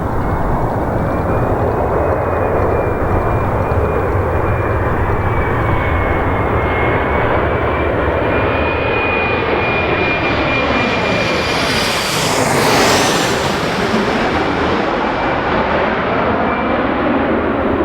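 Embraer E175 regional jet's twin GE CF34 turbofans passing close by, a steady jet rumble with a high whine, loudest about thirteen seconds in as the jet goes past.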